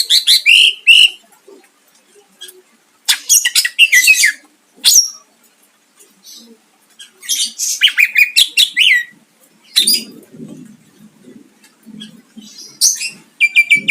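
Cucak ijo (green leafbird) singing loudly in bursts of rapid, sharp notes and trills, with pauses of a second or two between phrases. Several phrases end in a quick downward slide.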